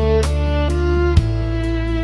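Background instrumental music: a slow violin-like melody of held notes over a steady low bass, with a single soft beat about a second in.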